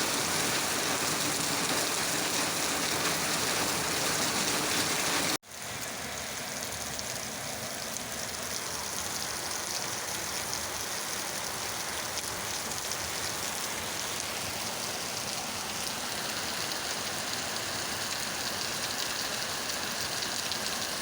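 Steady rain falling, an even hiss of drops. About five seconds in the sound cuts out abruptly for an instant and resumes a little quieter.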